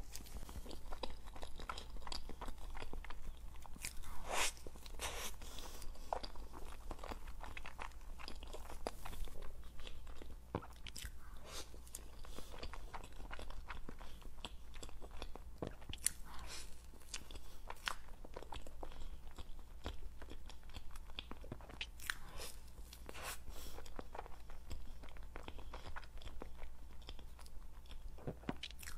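Close-miked biting and chewing of a blueberry Oreo crepe towel roll: irregular small crunches and sharp mouth clicks throughout, from the Oreo crumbs in the cream filling and the soft crepe.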